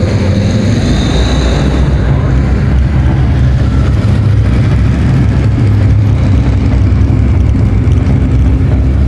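A motorcycle engine running with a steady, loud, deep rumble.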